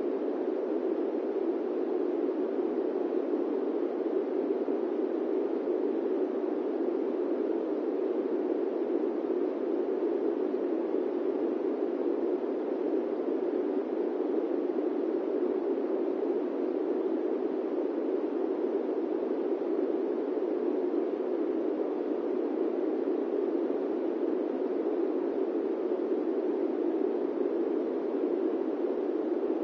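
Steady airplane-cabin white noise: an even, muffled rush with its weight in the low middle, unchanging throughout.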